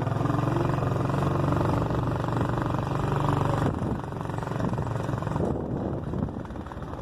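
A vehicle's engine running as it drives along a road, with a steady pulsing note. It eases off about halfway through.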